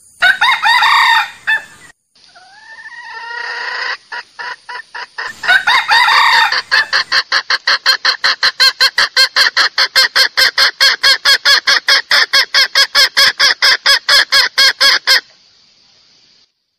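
Junglefowl calls: crowing and rising calls, then a long run of quick, even clucks at about five a second that stops abruptly near the end.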